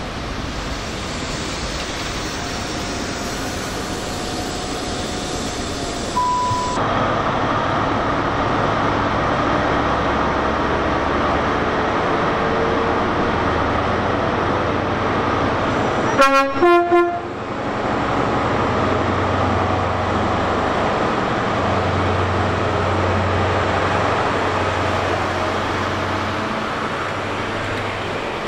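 A train running along the line, with a brief two-note horn blast of about a second a little past the middle.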